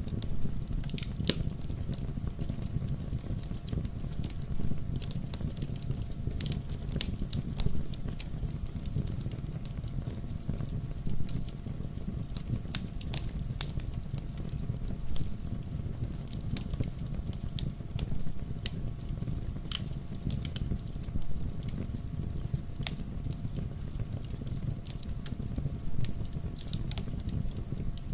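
Fireplace fire crackling: irregular sharp pops and snaps over a steady low rush of the flames.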